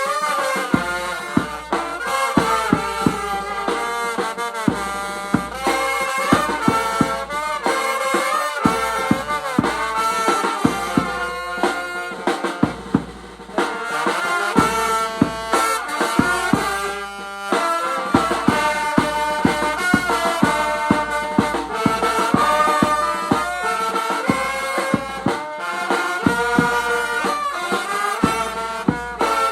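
Brass band music in the Mekong Delta funeral style (nhạc Tây): horns such as trumpet and trombone play a wavering melody over frequent drum beats.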